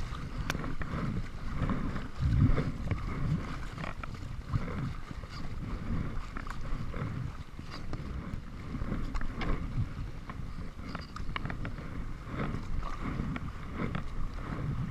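Kayak on the water: paddle splashes and water lapping at the hull, with wind buffeting the microphone.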